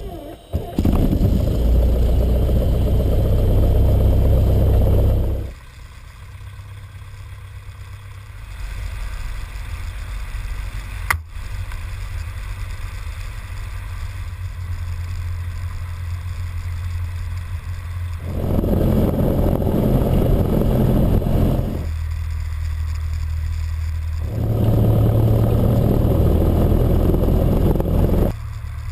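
Cessna 172's piston engine starting and running, its propeller turning, with the sound growing louder and quieter several times as the power changes.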